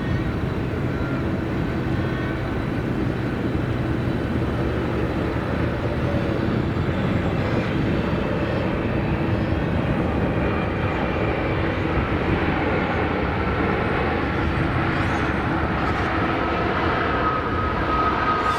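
Boeing 777-300ER's GE90 turbofan engines as the airliner comes in to land: a steady jet roar with a faint whine, and a higher whine that grows stronger near the end.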